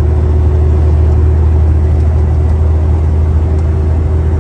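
Semi truck on the road, heard from inside the cab: a steady low engine drone with road noise and a faint constant whine.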